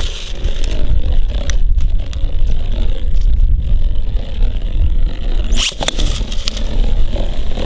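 Beyblade Burst tops spinning and scraping against each other in a plastic stadium, with one sharp clash about five and a half seconds in. Heavy wind rumble on the microphone runs under it.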